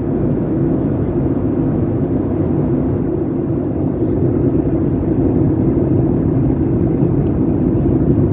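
Steady drone of an airliner's cabin in flight: engine and airflow noise heard from a passenger seat, even and unbroken.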